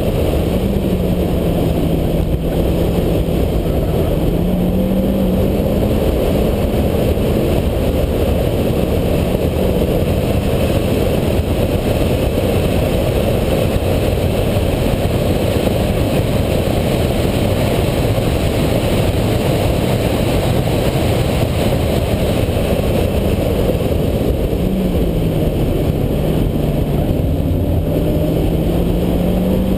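Renault Clio RS four-cylinder engine running at speed on track, its note sinking and slowly climbing again a couple of times, under a heavy steady rush of wind and road noise.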